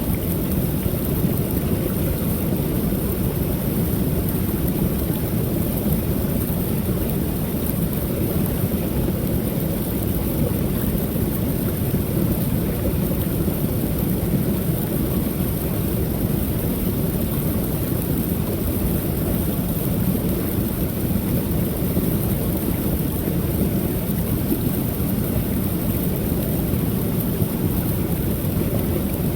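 Waterfall on a creek: water pouring over the falls in a steady, deep rush that holds an even level throughout.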